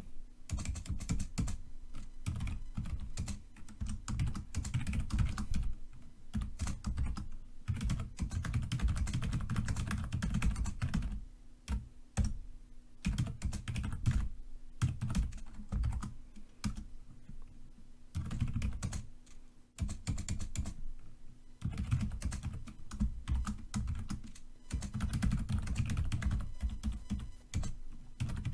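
Typing on a computer keyboard: fast runs of key clicks, heavy in the low end, broken by brief pauses about 12, 20 and 25 seconds in.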